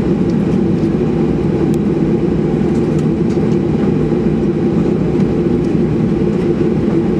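Steady engine drone and rumble inside the cabin of a Boeing 737-800, its CFM56 turbofans running with an even low hum.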